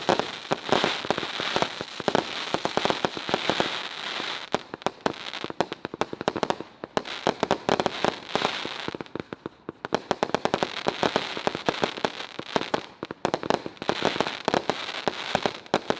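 Consumer aerial finale cake firing, a dense, rapid crackling that comes in waves and thins briefly about six and ten seconds in.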